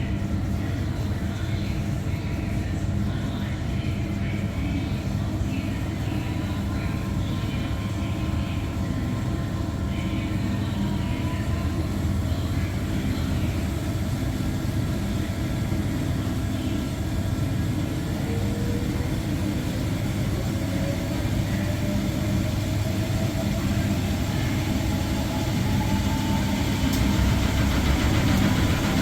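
Electrolux washing machine in its extraction spin: a steady low motor hum, with a whine that rises in pitch through the second half as the drum speeds up.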